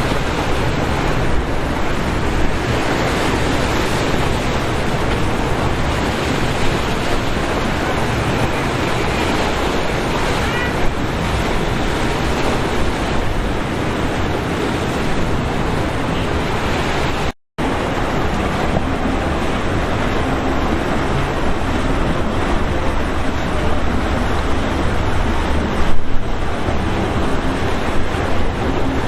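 Steady rush of rough surf and breaking waves, with wind buffeting the microphone. It cuts out in a brief gap about two-thirds of the way through.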